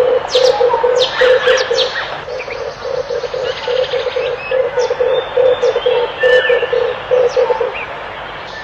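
Red collared dove cooing in a fast, even series of low coos, about two to three a second, with brief pauses, over sharp, high, falling chirps of small birds.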